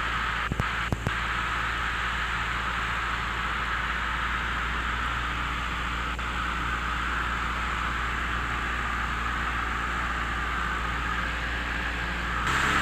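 Steady cabin drone of a 1976 Cessna 172M in flight, engine and airflow noise heard as an even hiss over a low hum. Two faint clicks come about half a second to a second in, and the noise steps up slightly just before the end as the radio opens.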